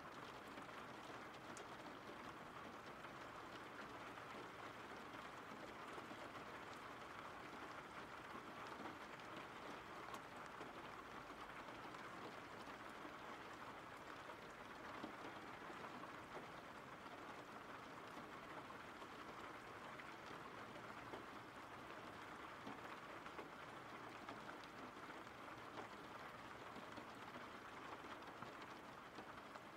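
Steady rain falling: a faint, even hiss with scattered soft drop ticks.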